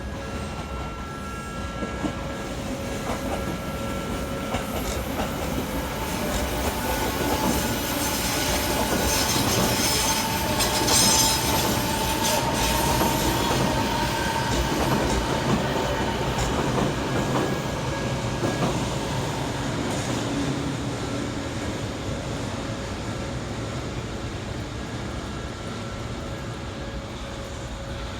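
An Odakyu Line train passing through a level crossing. Its sound grows to a peak about eleven seconds in, then slowly dies away.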